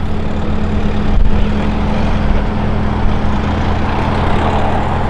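Car engines running at low speed in slow-moving traffic, a steady low engine hum with road noise building near the end.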